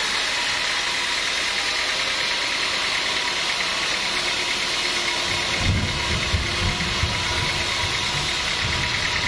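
Sawmill machinery running steadily, an engine-like drone with a hiss over it. A low rumble joins in about five and a half seconds in.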